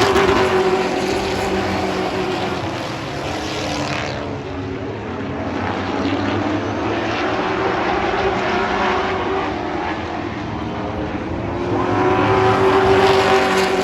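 Race truck engines running at full throttle around an oval, their pitch rising and falling as the pack comes past; loudest at the start and again near the end, easing off in between.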